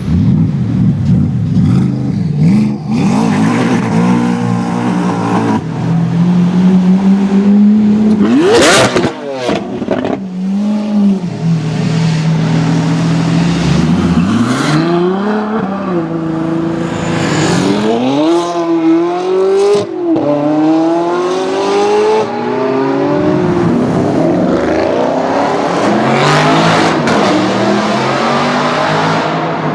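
High-performance sports car engines revving and accelerating hard, the pitch climbing and dropping again several times, in steps like gear changes, with one sharp high sweep about nine seconds in.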